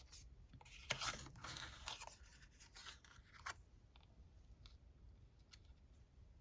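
Faint crinkling and rustling of paper or plastic craft material being handled, with a few light clicks, busiest in the first three and a half seconds, then only a couple of soft taps.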